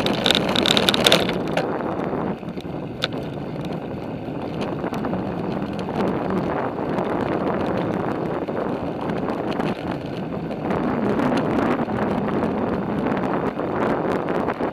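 Riding a bicycle: steady rush of wind on the microphone and tyre noise, with frequent small rattles and clicks from the bike. There is a brief high whine in the first second.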